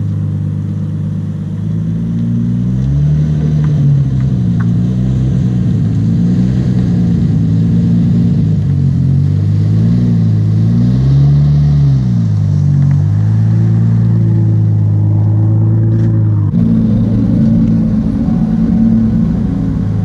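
Toyota Supra's 2JZ-GTE twin-turbo inline-six running while the car is driven slowly into a parking spot. The revs rise and fall several times, hold steady for a few seconds, and then the sound changes about three-quarters of the way through.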